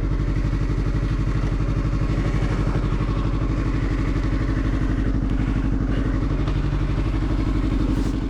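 Motorcycle engine running steadily at an even, unchanging speed, its firing pulses in a regular beat.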